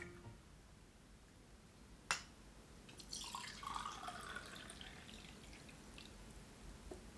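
A single sharp click, then about a second and a half of faint water dripping or trickling.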